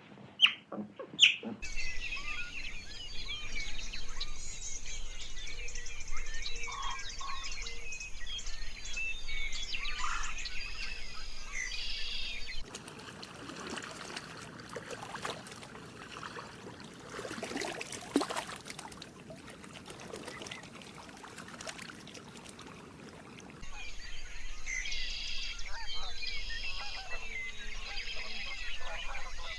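Many small birds chirping and singing at once, a dense high chorus. Partway through it gives way to a quieter stretch of scattered clicks and rustling, and then the chorus returns near the end.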